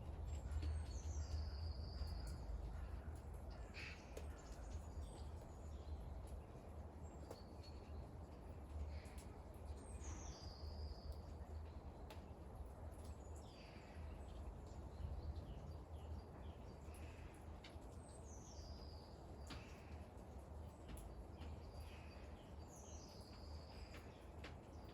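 A bird gives a high call that falls in pitch, about four times at intervals of several seconds. Under it are faint scattered drip-like ticks of rain and a steady low rumble.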